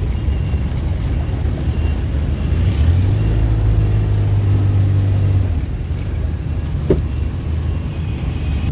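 Motor vehicle engine running with road rumble, a steady low drone that swells for a few seconds in the middle.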